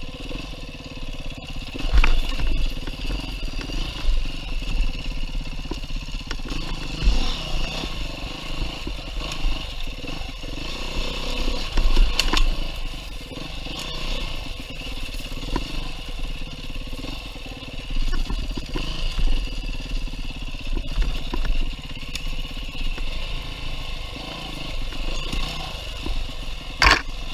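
A 2019 Beta 390 RR-S single-cylinder four-stroke dirt bike engine revving up and down as it is ridden over rough single track. There are a few sharp knocks along the way, the loudest near the end.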